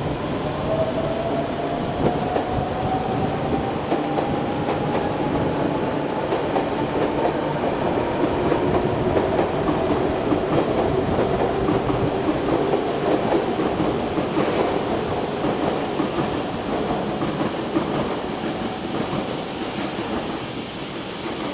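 Container freight train hauled by an EH500 electric locomotive running past, wheels clattering over the rail joints, with faint drawn-out whining tones that slowly rise in pitch.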